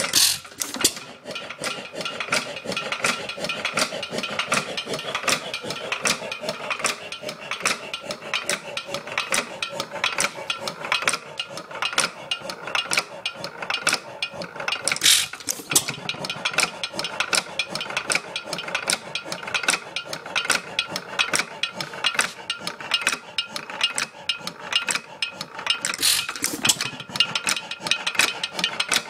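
Bates & Edmonds Bull Dog 2½ hp hit-and-miss engine running, its mechanism clattering in a quick, even rhythm of clicks, with three louder bursts: one at the start, one about halfway and one near the end.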